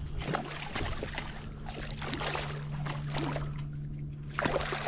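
Water splashing and dripping around a kayak, with small knocks from handling, over a steady low hum. There is a brief quieter lull near the end.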